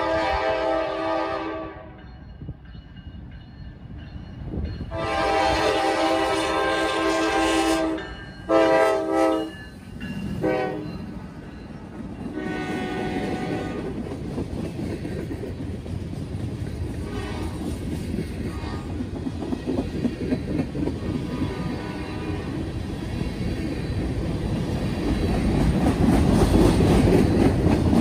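Norfolk Southern freight train's horn blasting. One blast ends about a second and a half in, a long one comes about five seconds in, then two short ones. Then the train passes and its freight cars roll by with wheels clattering on the rails, growing louder near the end.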